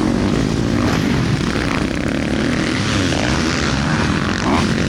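Dirt bike engine revving on a motocross track, its pitch rising and falling as the rider works the throttle.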